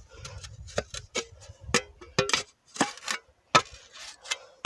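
An irregular series of about ten sharp clicks and light knocks, some with a short ringing note, over a faint low rumble.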